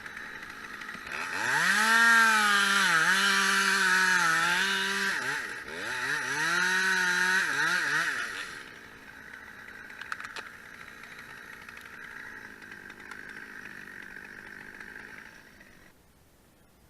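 Chainsaw revved up and cutting in two bursts of a few seconds each, its pitch sagging and recovering as the chain bites the wood. A steadier, quieter high hum runs underneath and stops near the end.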